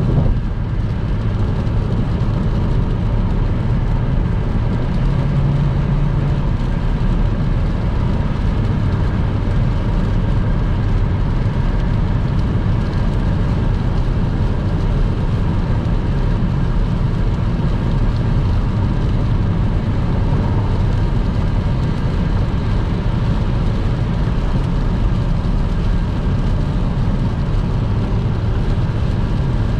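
Car driving at motorway speed in the rain: steady road and tyre noise with a low rumble.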